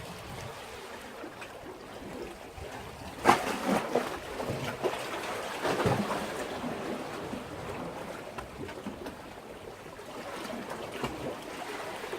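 Sea waves washing and splashing against a breakwater, with a sharp splash about three seconds in and another surge near six seconds.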